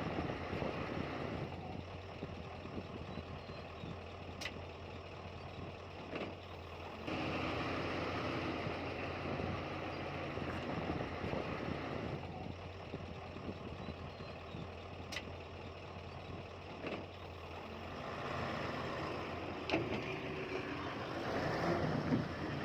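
Heavy diesel earthmoving machinery running, a steady engine drone that steps up in loudness about seven seconds in and grows again near the end, with a couple of sharp ticks.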